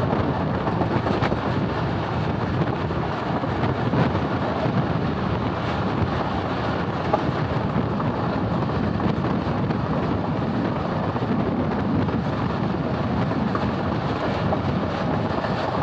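Thal Express passenger train running at high speed, heard from the side of a moving coach: a steady rush of wheel and track noise with wind buffeting the microphone.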